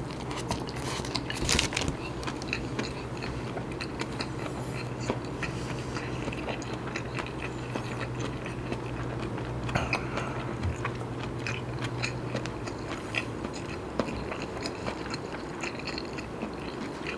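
Close-miked chewing of a mouthful of nasi kandar, rice with curry eaten by hand, with small wet clicks and crackles of the mouth. A low steady hum stops about twelve seconds in.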